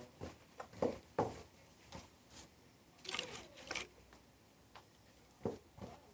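Scattered brief rustles, scrapes and light knocks of things being handled, about a dozen short sounds with quiet gaps between them.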